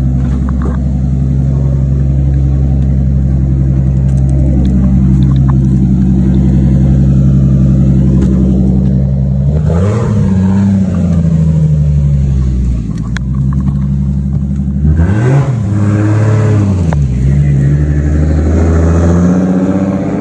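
Car engine idling steadily, blipped up in revs and back down about halfway through, then revved several more times a few seconds later.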